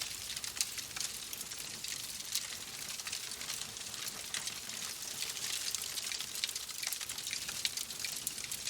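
Wood fire crackling: a steady hiss with many sharp, irregular pops and snaps.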